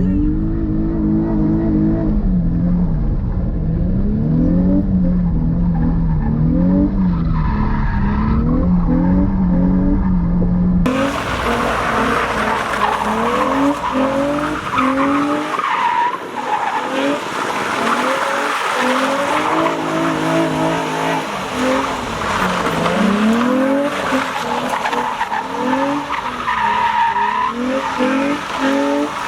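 A car's engine revving up and down again and again while its tyres squeal and skid through donuts. About eleven seconds in, the sound turns abruptly harsher, with louder tyre squeal.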